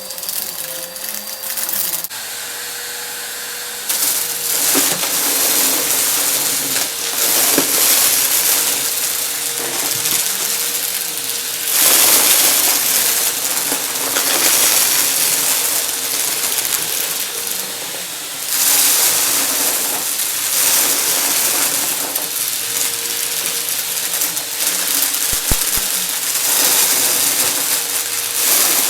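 Vacuum cleaner running with a steady motor hum while sucking up confetti, which crackles and rattles through the nozzle in surges that rise and fall every few seconds.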